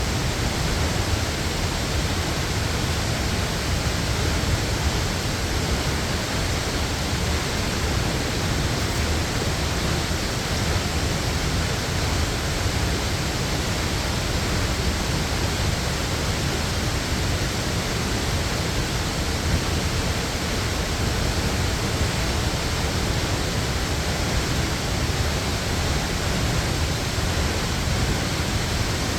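Waterfall pouring: a steady, unbroken rush of water with a heavy low rumble underneath.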